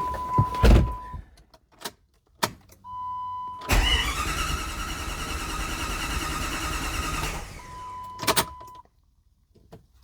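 The starter motor cranks the 1997 Jeep Grand Cherokee's 5.2L V8 for about three and a half seconds from roughly four seconds in, and the engine turns over without catching: a crank-no-start, which the owner later puts down to a distributor put back in 180 degrees out. A steady high tone sounds briefly before and after the cranking, with a few sharp clicks.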